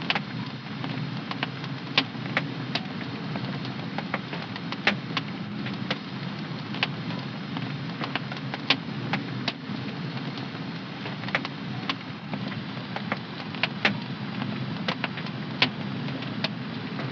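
Fire in a home fireplace burning with a steady low rush and irregular sharp crackles and pops, several of them louder snaps.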